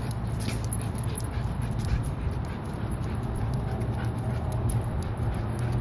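Dog whimpering over a steady low hum, with light clicks and ticks throughout.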